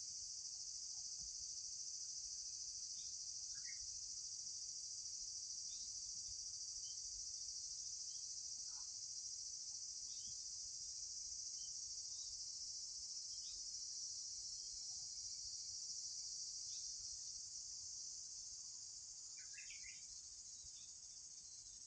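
Insects, crickets or the like, trilling in a steady, continuous high-pitched chorus that eases slightly near the end, with a few faint, short bird chirps now and then.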